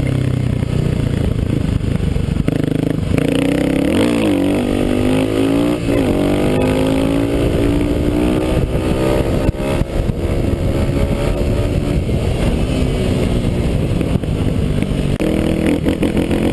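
Kawasaki KLX250S single-cylinder four-stroke engine under hard throttle, the revs climbing sharply and dropping back twice, about four and six seconds in, then running steadily, with wind noise over it.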